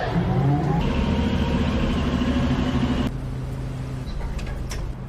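A motor running steadily, rising briefly in pitch about half a second in, then louder for about two seconds before settling back.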